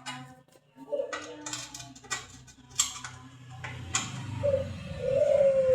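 A series of sharp clicks and metallic knocks from scroll saw parts and tools being handled, about one a second, with a low hum building up near the end.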